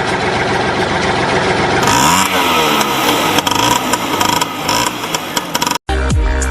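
Engine running and revving, with pitch sweeps rising and falling from about two seconds in, mixed with electronic music. The sound cuts out briefly near the end and comes back with heavy bass and falling sweeps.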